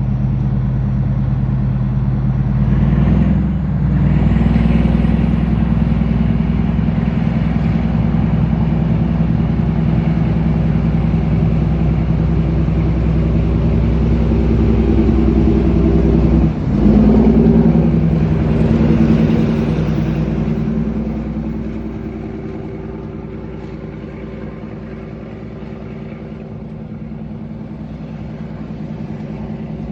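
MÁV class M41 diesel-hydraulic locomotive's engine running hard. The note breaks off briefly about three seconds in and again about halfway through, then grows quieter over the last third.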